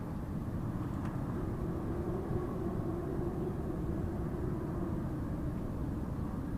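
Strong wind blowing steadily with a deep rumble and a faint low howling tone.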